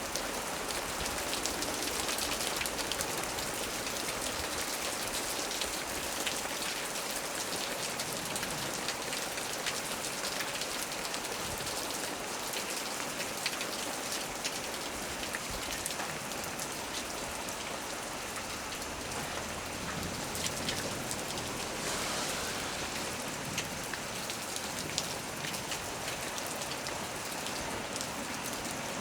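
Heavy rain falling steadily on the leaves of a small tree, a dense even hiss with many individual drops ticking through it.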